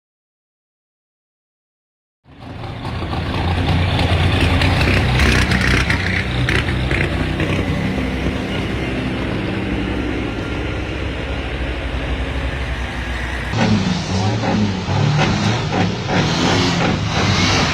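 Racing trucks' engines running hard under power, cutting in suddenly about two seconds in after total silence. The sound changes abruptly about two-thirds of the way through.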